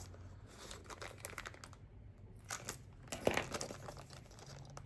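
Packaging being handled: irregular crinkling and crackling, with a louder burst of crackles about three seconds in.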